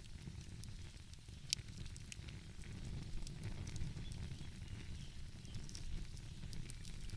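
Wood fire crackling with scattered small pops and one sharp pop about a second and a half in, over a low steady rumble.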